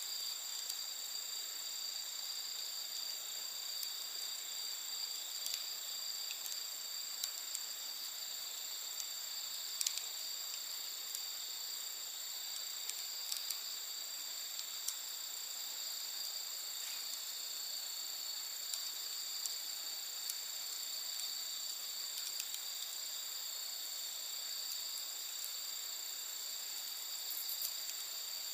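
A steady high-pitched chorus of night insects, with the scattered small pops and crackles of a wood campfire, one louder pop about ten seconds in.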